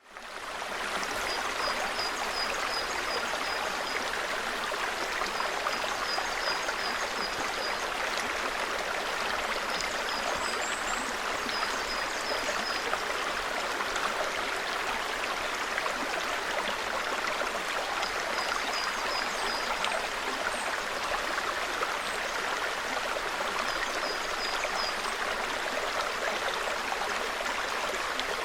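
Small forest stream, steady continuous water babble. Over it a bird calls in quick series of short high notes, repeated every few seconds.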